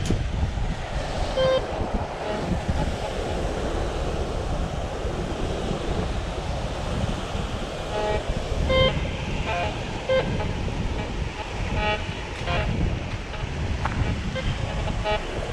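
Metal detector giving short signal beeps at a few different pitches, now and then, as it is swept over the beach, over a steady rumble of wind on the microphone and surf.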